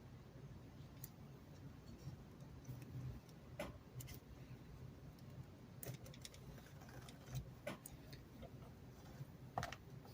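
Faint scattered light clicks and taps of hand work, threading the stitching through the holes for a baseball stitch, over a low steady hum.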